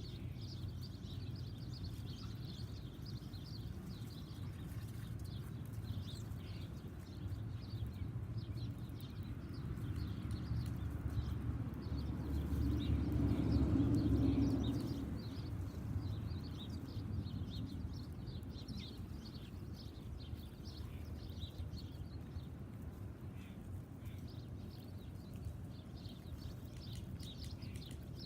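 Small backyard birds chirping in short, repeated calls over a low steady rumble that swells and fades about halfway through.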